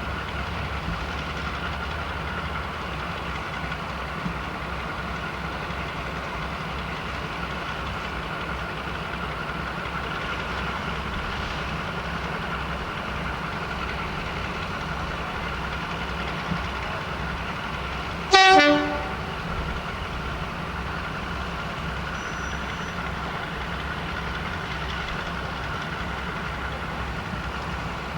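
Diesel railway engine running steadily, with one short, loud horn blast about two-thirds of the way through.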